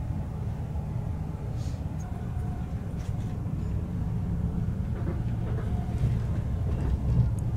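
Steady low rumble of a passenger train running along the line, heard from inside the carriage, with a few faint clicks.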